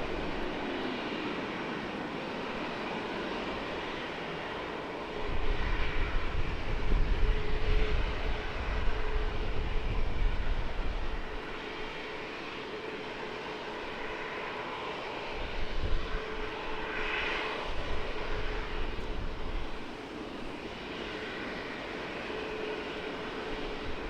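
Jet airliner's engines on the runway, a steady hissing whine with a heavy low rumble about five to eleven seconds in.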